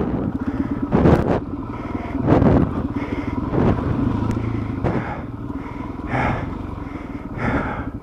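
Dual-sport motorcycle engine running at low speed through slick mud with a steady fast chug, and noisy bursts about once a second.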